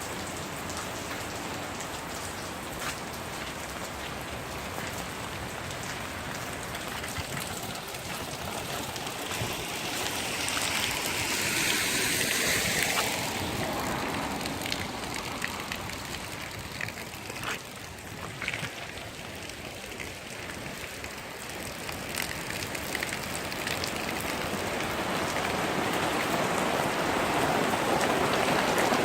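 Rain falling, a steady hiss with scattered drops ticking; it grows louder for a few seconds about ten seconds in and builds again over the last several seconds.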